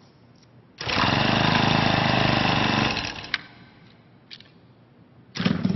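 A small engine running loud and rough for about two seconds, starting abruptly and then dying away. Another engine sound starts suddenly near the end.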